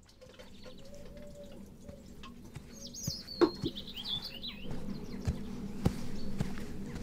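Quiet garden ambience with a small bird chirping a quick run of notes about three seconds in, and a few light knocks.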